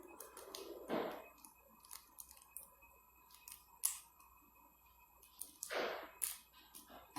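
Short rustles and tearing of a plastic instant-noodle seasoning sachet being opened, with a sharp click near the middle.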